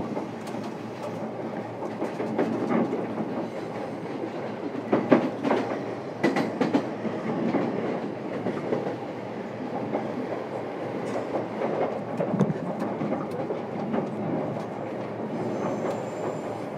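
Running noise of a JR East E233-series electric train heard inside the motor car: a steady rolling rumble of wheels on rail, with a few clacks over rail joints, the sharpest about five and six seconds in.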